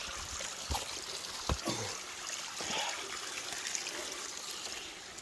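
Mountain stream swollen by rain, running water rushing steadily, with a few short knocks in between.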